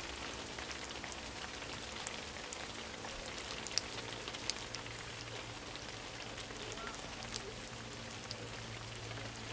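Light rain pattering, with scattered sharp drop ticks over a steady hiss and a low steady hum underneath.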